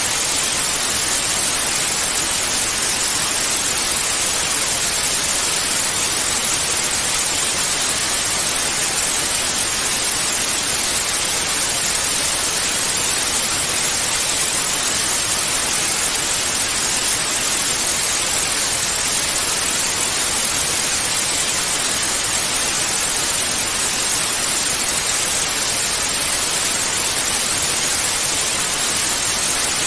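Television static (white noise): a steady, unchanging hiss with most of its energy in the treble.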